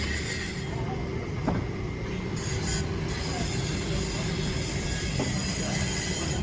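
Steady rumbling mechanical noise with a thin, steady high squeal over it.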